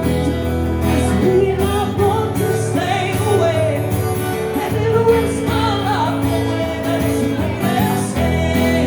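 Live band music: guitars and bass playing, with a wavering melodic line over them.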